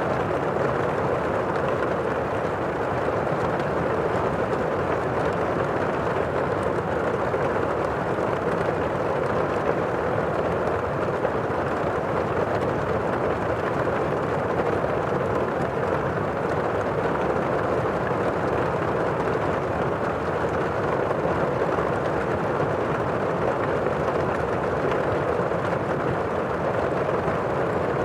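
Heavy rain heard from indoors, a steady, even roar with little high-end hiss, muffled by the walls and windows.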